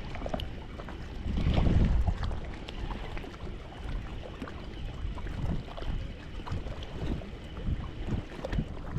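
Strong wind buffeting the microphone in uneven gusts, the loudest about a second and a half in, with scattered faint clicks.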